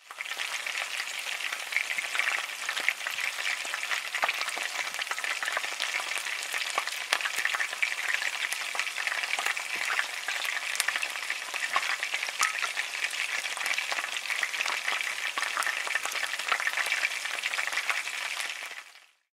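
Chopped onion and garlic sizzling in hot oil in a stainless steel frying pan as they are sautéed and stirred with a wooden spatula: a steady crackle of many small pops that stops abruptly near the end.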